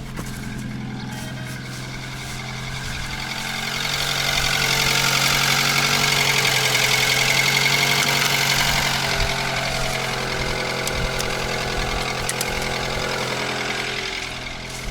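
An engine running steadily at constant speed, with a hiss that swells in the middle and fades again.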